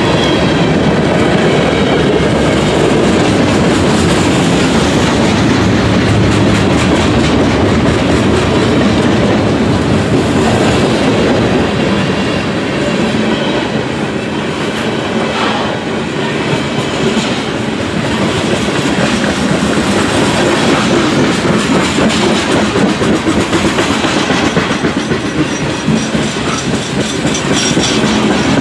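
Norfolk Southern freight train's cars rolling steadily past, wheels clacking over the rail joints.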